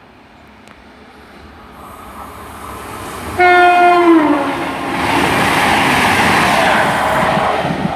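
CrossCountry Class 221 Super Voyager diesel train passing through a station at speed. It grows louder as it approaches and sounds its two-tone horn briefly about three and a half seconds in, a higher note then a lower one. Loud rushing noise of the train going past follows.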